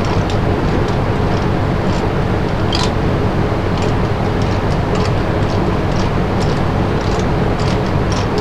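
Wood lathe running steadily with a low hum, with many short, irregular scratchy ticks of a tool working the spinning piece.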